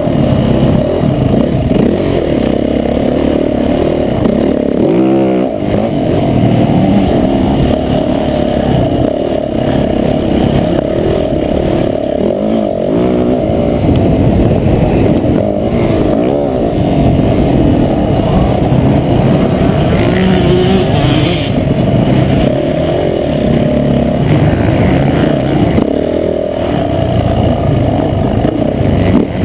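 Motocross bike engine revving up and down continuously while the bike is ridden hard, heard from an on-board camera with the sound mostly low and muffled.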